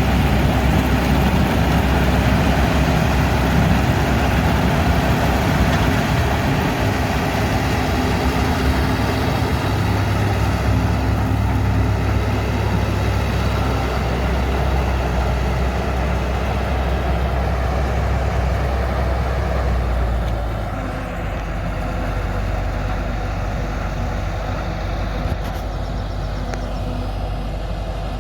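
Large diesel harvest machinery running steadily with a deep engine hum and a mechanical rush. The sound drops a little about twenty seconds in.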